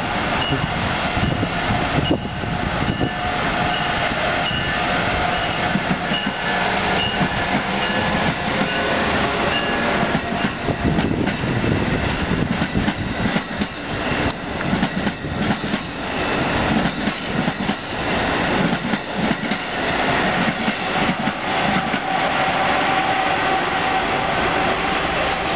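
Amtrak Acela Express electric trainset rolling past: a steady rumble of steel wheels on rail, with clatter over the track joints and a faint whine that comes and goes.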